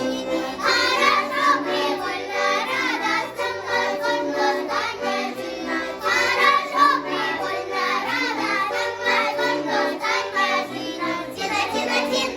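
Vocal ensemble of young voices singing a Russian folk song over instrumental accompaniment.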